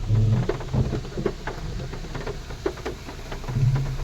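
A car fording water running across the road, with irregular splashing and spattering around it and the engine running low underneath.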